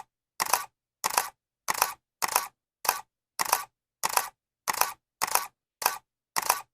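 Camera shutter click sound effect, repeated evenly a little under twice a second with silence between clicks, each click a quick double snap.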